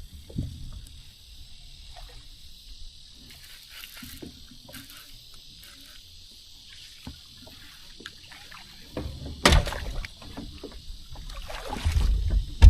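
Small knocks and water sounds of a kayak on the water, with a loud knock about nine and a half seconds in and a louder low rumble near the end.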